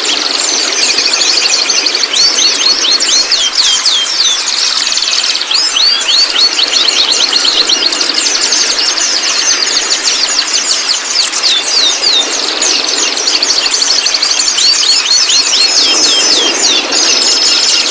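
White-rumped shama chattering: a rapid, unbroken stream of short, high, sliding notes, over a steady background hiss.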